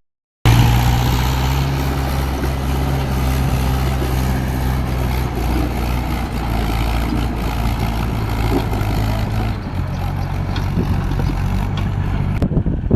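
Heavy diesel engine of a backhoe loader or tractor running steadily at an even, low pitch. Near the end it cuts abruptly to wind buffeting the microphone.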